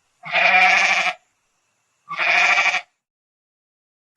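Goat bleating twice: a wavering call about a second long, then a shorter one about two seconds in, with silence between.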